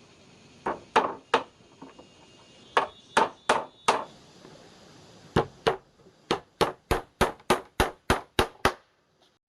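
A series of sharp knocks, about twenty in all: a few loose groups at first, then a steady run of about three a second near the end.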